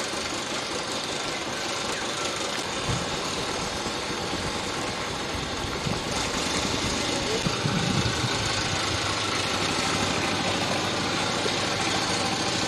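An engine running steadily, its hum coming in a few seconds in and getting louder toward the second half, with indistinct voices.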